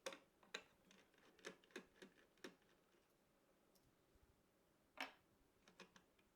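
Scattered light clicks and taps of computer parts being handled during a PC build: a cluster of small knocks in the first half, one louder click about five seconds in, and a few faint ticks near the end.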